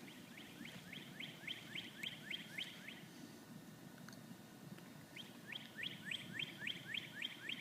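A songbird singing two runs of quick, repeated down-slurred whistled notes, about four a second; the first run stops near three seconds in and the second starts about five seconds in.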